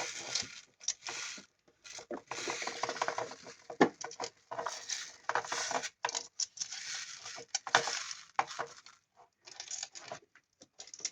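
Irregular clicking, knocking and rattling of a busy board's moving parts (spinning clock hands, toy phone, sliders) as a toddler handles them.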